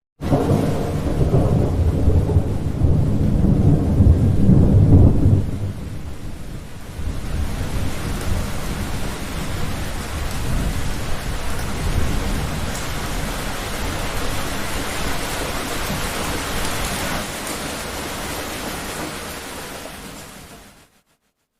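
A thunder rumble starts suddenly and rolls on for about five seconds, with rain under it. The rain then goes on as a steady hiss and fades out near the end.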